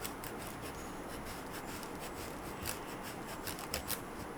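Cheese being added on top of a tomato risotto: soft rubbing and scraping with scattered light ticks, busier in the second half.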